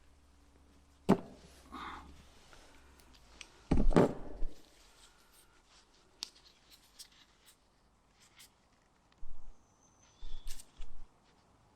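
Handling of small heater fuel-line parts and Jubilee clips: scattered clicks and knocks, with a louder clatter about four seconds in and a few short scuffs near the end.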